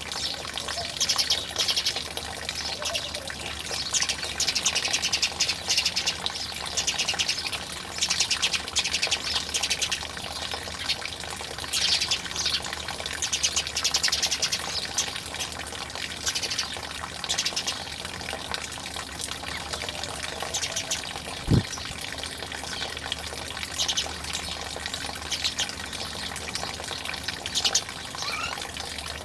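Water running and splashing in uneven surges, with a single sharp knock about twenty-one seconds in.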